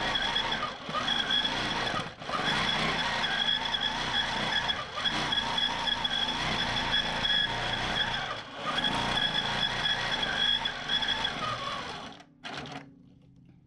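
Q'nique 19 longarm quilting machine stitching in stitch-regulated mode, running steadily with a high-pitched whine, easing off briefly a few times. It stops about twelve seconds in, followed by a single short knock.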